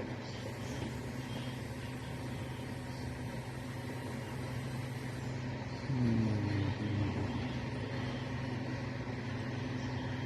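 Tractor-trailer's diesel engine running at a steady idle, with a brief rev that rises and falls about six seconds in.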